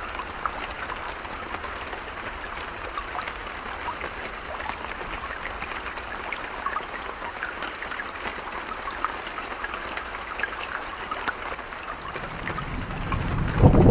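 Steady rain falling, with many small drops pattering. Near the end a low rumble of thunder swells up and grows loud.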